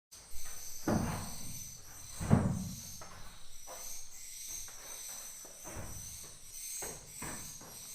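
Swiftlets twittering inside a swiftlet nesting house, a steady high-pitched chatter, with rustling knocks about a second in and a louder one at about two and a half seconds.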